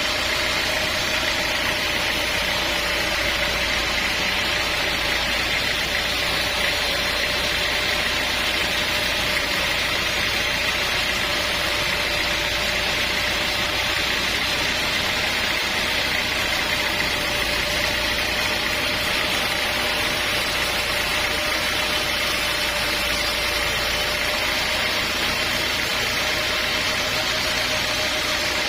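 Sawmill engine running steadily, with a constant hum and hiss that neither rises nor falls.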